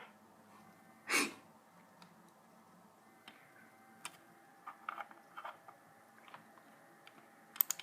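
Quiet room with a short breath-like hiss about a second in, then scattered soft clicks, like a computer keyboard or mouse being used, with a few sharper clicks near the end.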